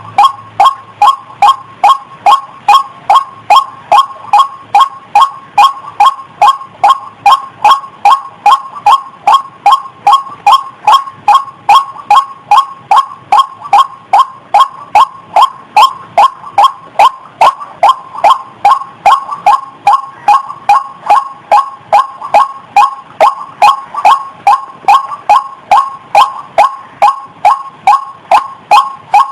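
Female rail of the kind sold as ruak-ruak or ayam-ayaman calling in breeding condition. It repeats a short, slightly falling note very evenly, about twice a second, without a break. This is the call used as a lure to draw other birds of its kind.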